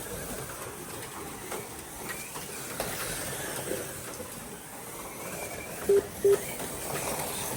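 Slot cars running on the track, a steady whirring of small electric motors and guide rollers in the slot. About six seconds in come two short electronic beeps, close together.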